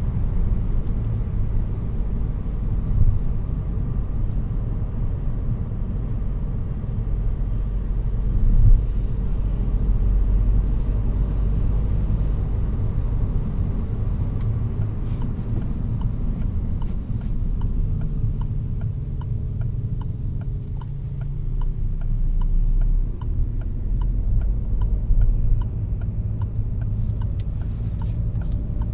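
The 2018 Peugeot 308's 1.6 BlueHDi four-cylinder turbodiesel running under way, with a steady low rumble of engine and road noise. About halfway through, a regular ticking of roughly two a second joins in.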